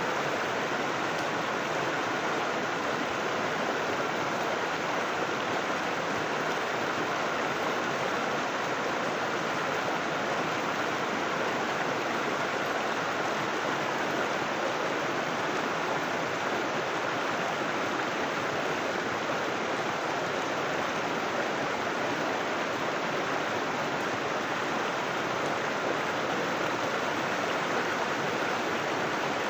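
River water rushing and burbling over rocks, a steady, even flow.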